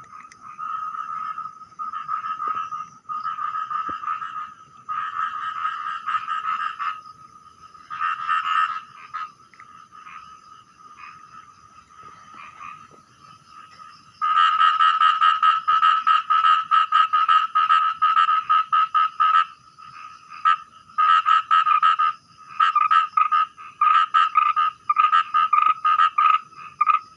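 A small frog calling loudly in fast pulsed rattling bouts, a "prak prak prak", fainter for a few seconds and then breaking into a long loud run about halfway through, followed by more bursts.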